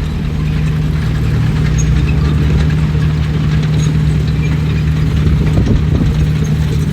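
Heavy diesel engine of earthmoving machinery running steadily, growing a little louder about a second in.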